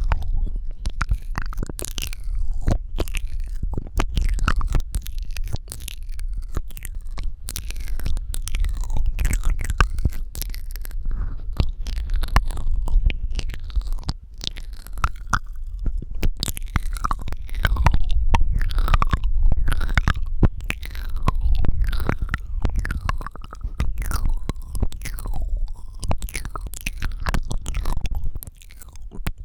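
Wet ASMR mouth sounds: a dense, irregular stream of tongue clicks, lip smacks and squelches over a low rumble.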